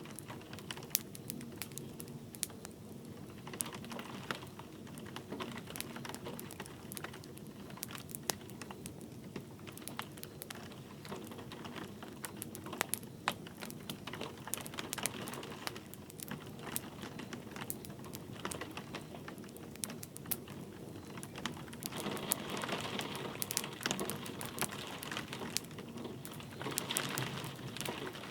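Wood fire crackling with irregular sharp pops over a steady soft hiss, blended with light rain; the crackle grows a little denser near the end.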